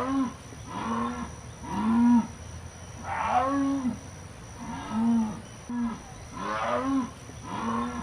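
Jaguar calling: a series of short grunting calls repeated about once a second, each rising and falling in pitch.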